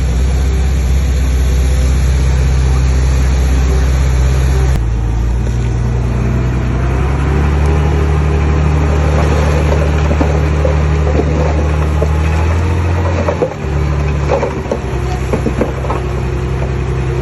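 Heavy diesel engine of earthmoving machinery running steadily at a low pitch; its note shifts abruptly about five seconds in. Irregular clicking and crackling joins it from about seven seconds in.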